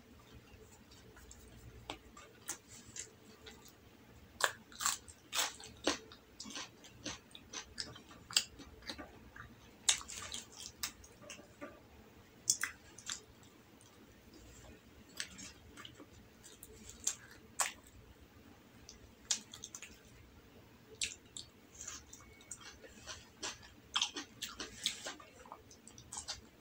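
A person chewing and biting soft rolled omelette with tomato slices, with wet mouth clicks and smacks at irregular intervals.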